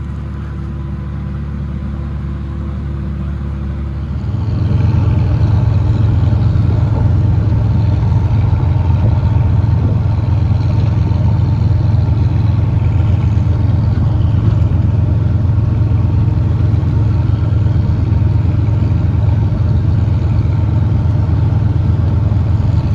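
Combine harvester's diesel engine running steadily; about four seconds in it gets louder and holds at the higher level.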